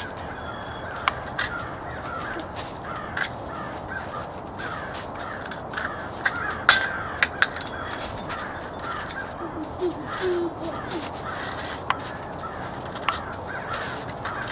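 A flock of birds calling continuously in short, rapid notes, with scattered sharp clicks among them.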